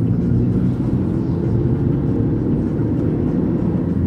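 Car driving at a steady speed, heard from inside the cabin: a steady low rumble of engine and road noise.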